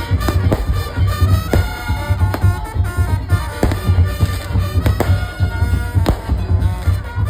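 Madurese tong-tong ensemble music played live: a reedy saronen shawm carries the melody over heavy, pulsing drums and sharp struck percussion.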